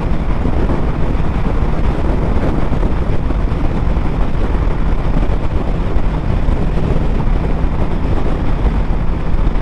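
Motorcycle cruising at highway speed, a steady engine drone under heavy wind rushing over the microphone.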